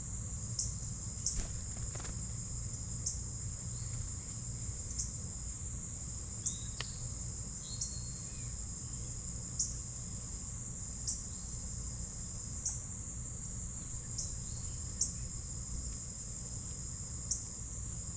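Insects trilling in a steady, unbroken high-pitched drone, typical of crickets, with short high chips breaking in every second or two over a low background rumble.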